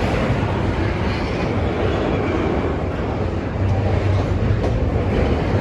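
Norfolk Southern intermodal freight train rolling past: a steady, loud rumble of wheels on rail.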